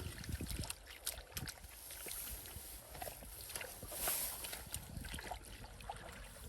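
Irregular splashing and sloshing in shallow, muddy rice-field water, as hands wade and grab for fish.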